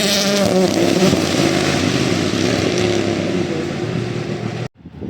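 Rally car engine running hard at high revs, with a rushing hiss over it. The sound cuts off abruptly about four and a half seconds in.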